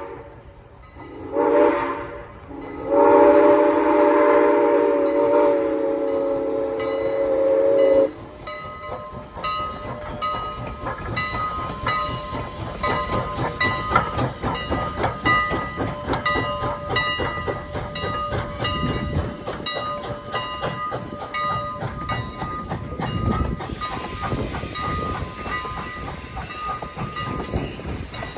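Steam locomotive's chime whistle sounding a short blast and then a long one of about five seconds, several tones at once. It cuts off and the train rolls past, wheels clicking over the rail joints in a fast, steady rhythm with a faint ringing tone above it.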